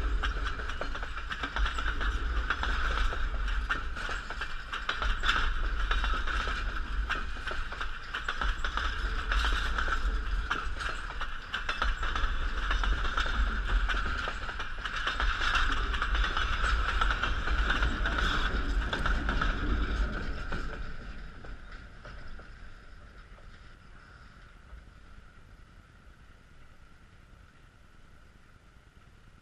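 Passenger railroad cars rolling past close by with a deep rumble and rapid clacking of wheels over the rail joints. The sound dies away from about 21 seconds in as the last car passes and the train moves off.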